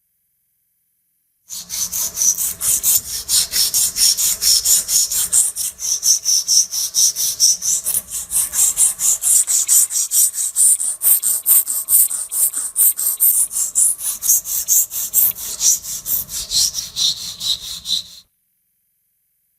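Rapid back-and-forth hand abrasion of rusty meat grinder metal, a scraping rub at about four strokes a second. It starts about a second and a half in and stops suddenly near the end.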